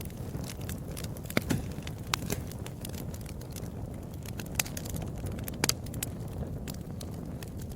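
Wood fire crackling: frequent sharp pops and snaps over a low steady rumble of the flames, with a few louder pops about a second and a half and five and a half seconds in.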